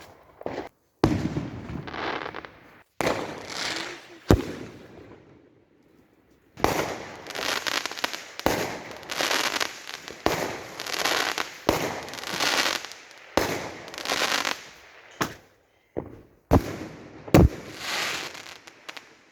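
Fireworks going off: a long run of bangs and crackling bursts, each about half a second to a second long. The sharpest bangs come about four seconds in and again near the end.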